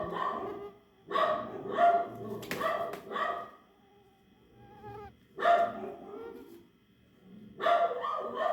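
A dog barking in short bouts of several barks, with quieter pauses of a second or two between them.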